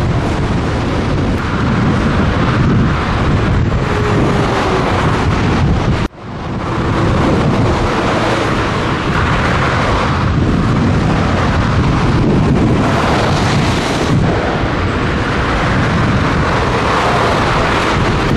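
Scania truck on the move: a steady, loud rumble of engine and road noise mixed with strong wind buffeting the microphone. About six seconds in the sound cuts out abruptly and builds back within a second.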